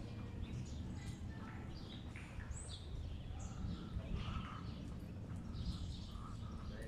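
Small birds chirping, many short overlapping calls, over a steady low rumble of city background noise.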